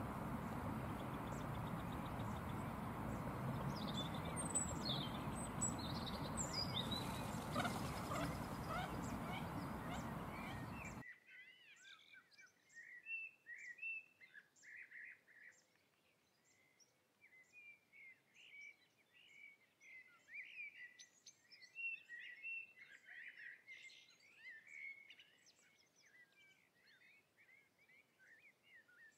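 Steady outdoor background noise with a few high bird chirps. About eleven seconds in it cuts off abruptly, leaving a quieter, busy twittering of birds.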